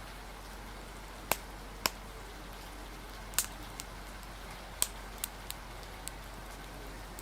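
Steady hiss of rain, with a crackling wood fire giving a handful of sharp, irregularly spaced pops and snaps.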